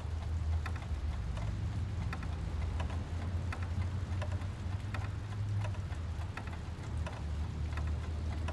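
Low steady hum of industrial plant machinery, with faint light clicks about twice a second.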